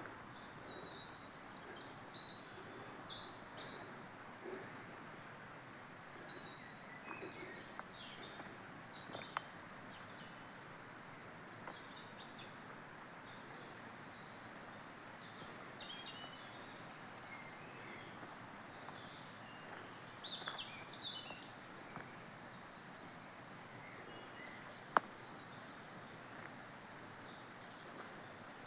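Small birds chirping and twittering on and off over a steady background hiss, with two sharp clicks, the louder one near the end.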